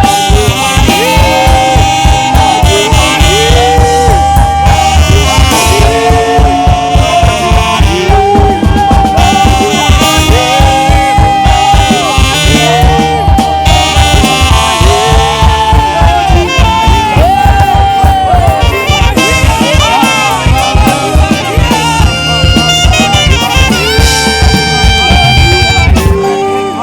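Live band music led by a saxophone playing a melody with slides between notes, over a steady drum beat. The music drops away near the end.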